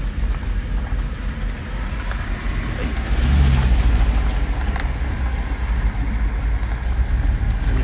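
Mercedes-Benz C63 AMG's 6.2-litre V8 running as the car drives, a low rumble that grows louder about three seconds in and holds there.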